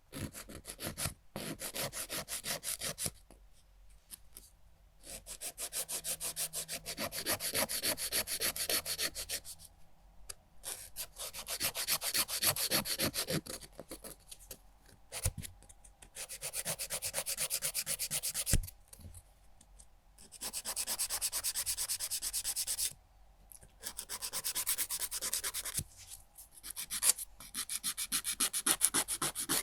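A nail file rubbed rapidly back and forth across fingernails, in fast, even strokes. The filing comes in runs of several seconds, broken by short pauses.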